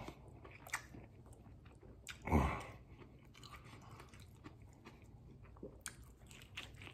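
A person chewing a mouthful of burrito, with soft wet clicks and smacks, and one louder breathy sound about two and a half seconds in. Near the end comes another bite into the tortilla.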